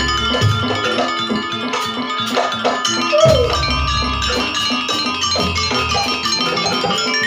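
Campursari music playing live: gamelan-style mallet percussion ringing over a steady drum beat.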